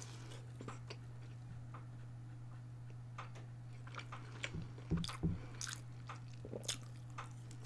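Close-miked chewing and biting on breaded chicken strips, with scattered crisp crunches and small wet mouth clicks at irregular moments, a few louder ones past the middle.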